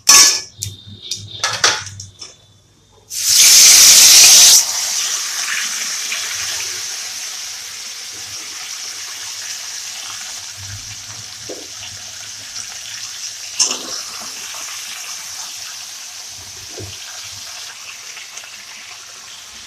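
A metal spatula scraping and clicking in a metal kadai, then about three seconds in a loud rush as a batch of sliced vegetables is tipped into the hot oil and panch phoron, settling into a steady sizzle as they fry. One sharp spatula clink comes later.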